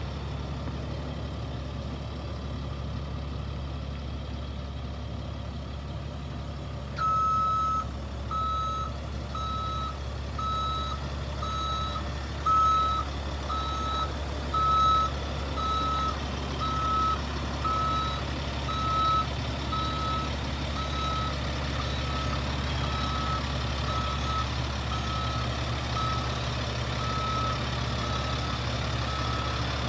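Diesel truck engine idling steadily, the CAT 3126 of a Freightliner FL70. From about seven seconds in, a backup alarm beeps about once a second, the sign of a truck in reverse.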